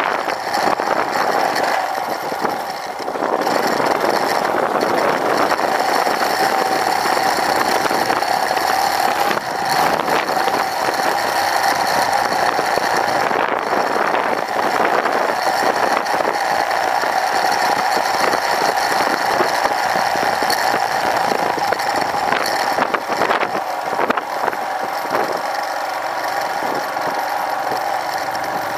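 Royal Enfield Himalayan's 411 cc single-cylinder engine running steadily as the motorcycle is ridden along the road.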